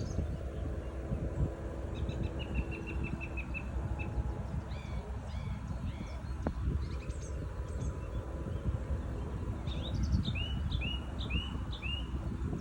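Small birds chirping in short series over a steady low rumble: a quick run of about eight even notes about two seconds in, scattered hooked calls around the middle, and a run of five or six upward-sweeping calls near the end.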